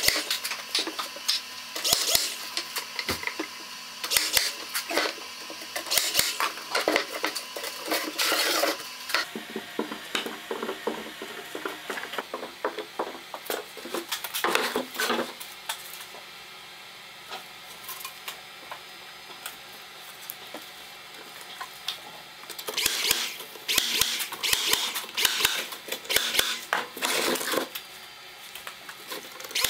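Irregular clinks, knocks and scrapes of hand work with tools and wood, with a quieter stretch in the middle before the activity picks up again.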